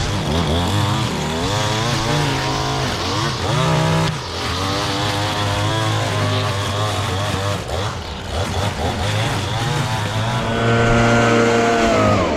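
Gas-powered leaf blower running, its engine pitch wavering up and down as the throttle is worked over a rush of air. It holds a steady high rev from about two seconds before the end, then cuts off just before the end.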